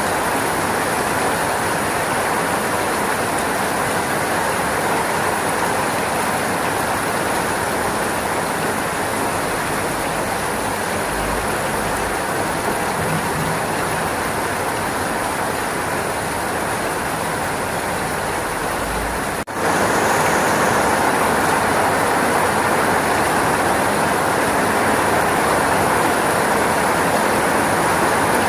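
Steady rainfall, an even hiss with no separate drops standing out. About two-thirds of the way through it cuts out for an instant and comes back slightly louder, like a splice in the recording.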